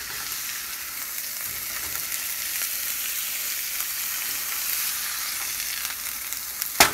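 Chicken sizzling as it fries in avocado oil in a pan, a steady high hiss. A single sharp knock sounds near the end.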